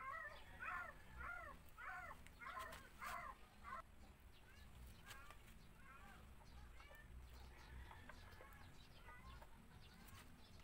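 A bird calling over and over, in a run of about seven short, arched calls a little more than one a second, then fainter calls through the rest. There are a few faint clicks among them.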